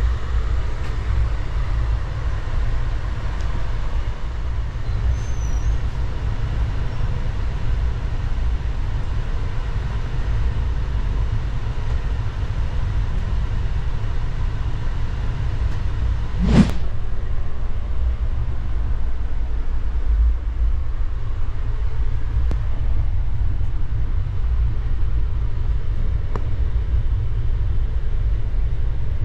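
Steady low rumble of an Indian Railways sleeper coach running along the track, heard from inside the compartment. A single sharp knock comes about halfway through.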